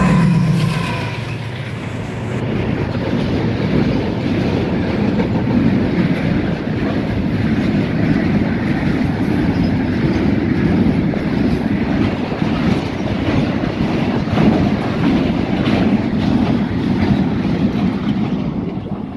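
WDG6G diesel-electric locomotive's engine passing close by, its drone fading within the first couple of seconds. Then a long string of freight tank wagons rolls past with a steady heavy rumble and the rapid clatter of wheels on the rails.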